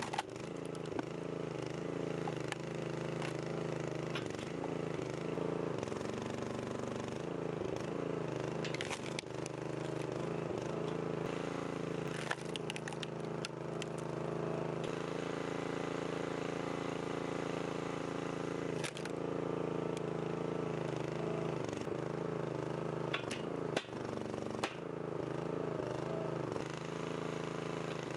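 Small 200cc single-cylinder engine driving a log splitter's hydraulic pump, running steadily with its pitch sagging briefly a few times as the load comes on. Occasional sharp cracks and knocks stand out over it.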